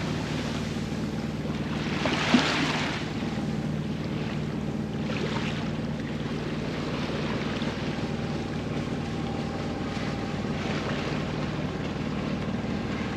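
Small sailboat's inboard engine running steadily under way, with water rushing along the hull in swells and wind on the microphone. A brief knock about two seconds in.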